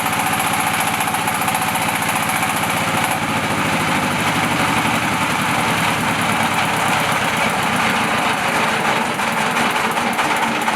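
Freshly repaired hand-crank-started engine running steadily with a fast, even knocking beat; its note shifts about three seconds in.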